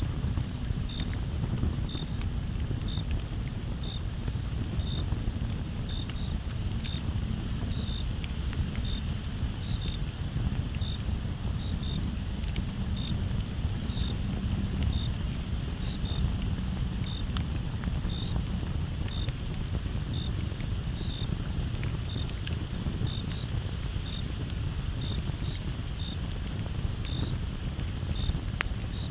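Campfire crackling, with scattered sharp pops over a low steady rush. Behind it a chorus of crickets hums steadily, and one cricket chirps about once a second.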